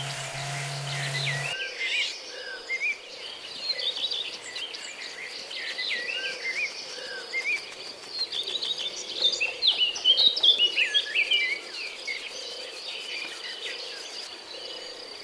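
Birds chirping and singing in quick, varied phrases over a steady high insect trill, the chirping busiest a little past the middle. A low hum stops about a second and a half in.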